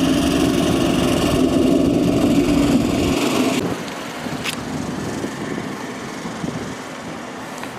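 A car engine running at idle, a steady drone that stops or drops away suddenly about halfway through, leaving quieter outdoor background noise.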